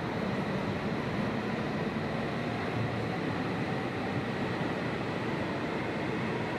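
E5 series Shinkansen pulling out of the station, its cars running past the platform with a steady, dense noise of wheels, motors and air.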